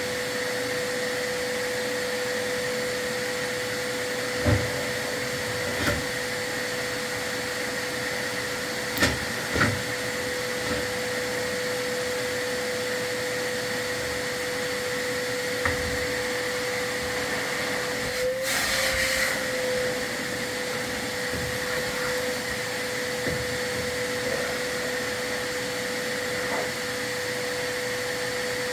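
Vacuum cleaner running steadily with a constant high whine, with a few sharp knocks in the first half and a brief louder rush of air about two-thirds of the way through, where the motor's pitch dips slightly.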